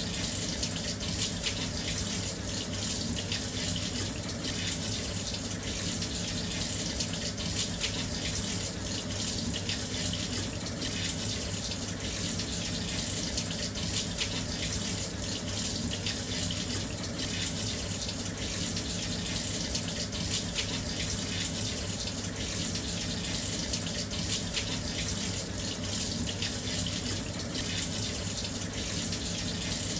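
Washing machine filling with water: a steady, even rush of water pouring into the drum.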